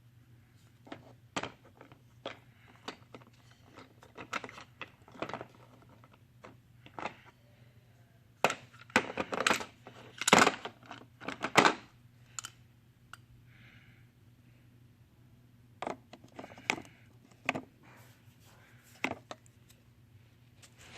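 Scattered clicks and knocks of small hard objects being handled, with a denser, louder clatter from about eight to twelve seconds in, over a faint steady hum.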